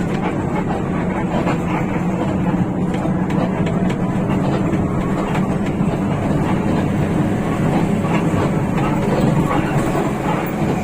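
Hino RK8 bus under way: the steady drone of its rear-mounted diesel engine mixed with road noise, with small irregular rattles throughout.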